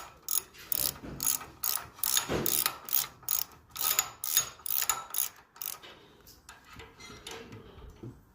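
Hand ratchet with a 3/8 Allen socket clicking in quick back-and-forth strokes, about three clicks a second, as the front brake caliper bolts are tightened. The clicking fades after about five seconds.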